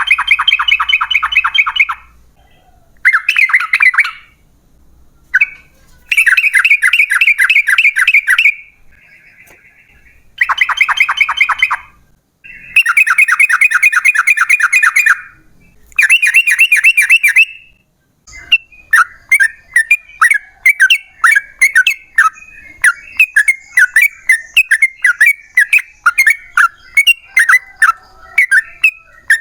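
Yellow-vented bulbul singing: several loud phrases of fast repeated notes, each two to three seconds long with short pauses between, then, from about eighteen seconds in, a long run of separate short chirps at about three a second.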